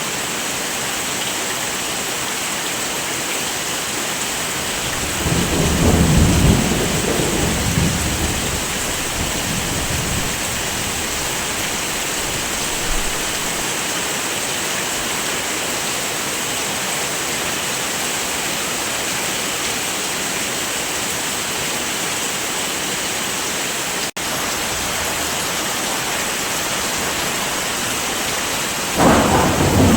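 Heavy rain falling steadily, with a roll of thunder rumbling for several seconds about five seconds in and another starting near the end. About three-quarters of the way through, the sound drops out for a split second.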